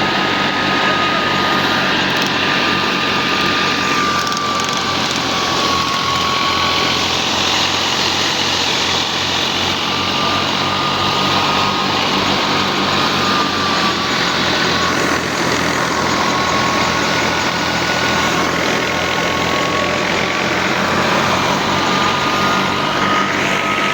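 Al-Ghazi tractor running a mustard thresher: a steady, loud engine-and-machinery din with a thin whine that drifts slightly up and down in pitch.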